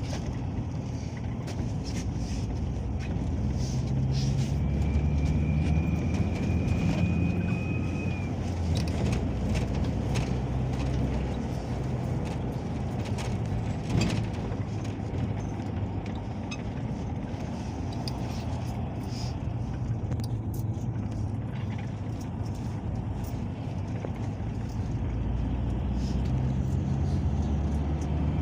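Inside a Peugeot Boxer minibus on the move: the engine drone rises and falls with the speed, over road rumble and the rattling of the body. There is a faint high whine for a few seconds near the start and a single knock about halfway through.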